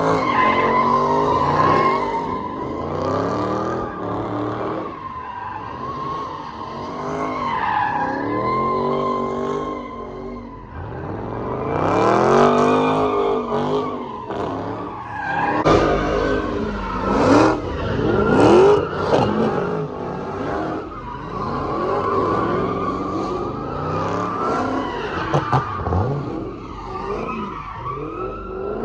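Car engines revving hard up and down again and again, with tires squealing and skidding, as in burnouts or donuts.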